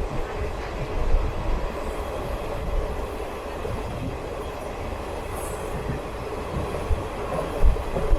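Flying Ranee Express double-decker passenger coaches running on the track: a steady rumble with two sharper jolts, about a second in and near the end.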